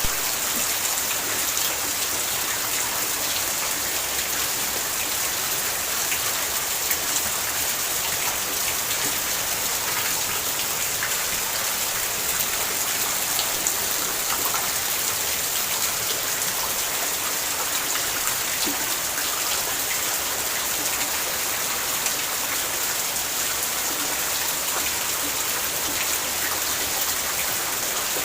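Steady rain falling, an even hiss with many single drops ticking out of it.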